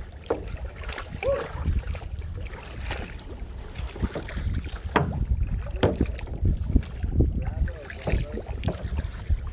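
Kayak paddling: irregular paddle strokes splashing and knocking against the hull, over a steady low rumble of wind on the microphone.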